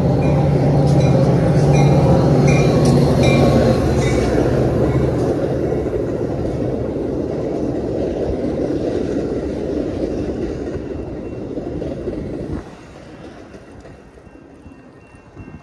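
Double-deck commuter train rumbling past close by, with a low hum and a run of evenly spaced clicks in the first few seconds. The rumble cuts off sharply about twelve seconds in, leaving quieter wind and road noise.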